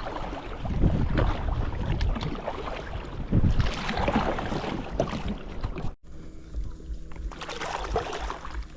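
Wind buffeting the microphone by the river, with gusty low rumbles and splashy noise. After a sudden cut about six seconds in, a steady low motor hum runs under lighter wind noise.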